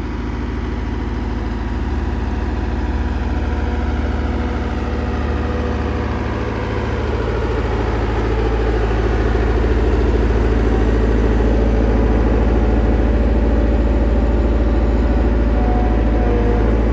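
A vehicle engine running steadily close by, its low hum growing louder about eight seconds in and then holding.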